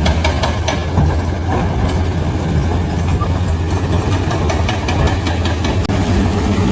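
Bulldozer's diesel engine running steadily with a deep, even hum, with scattered clicks and clanks over it.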